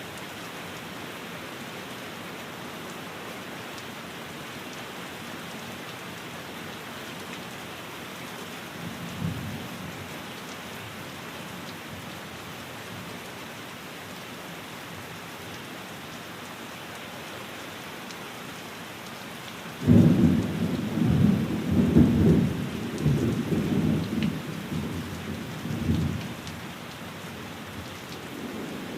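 Steady rain falling on a window. A faint rumble of thunder comes about nine seconds in, and a sudden loud clap of thunder about twenty seconds in rolls on in waves for some six seconds.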